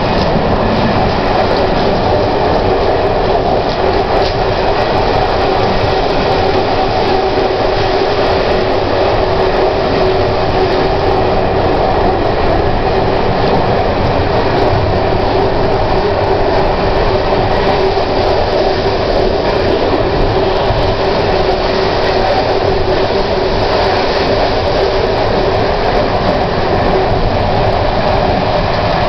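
Prague Metro train running steadily along the track: a loud, even rumble of wheels and motors with a held humming tone over it.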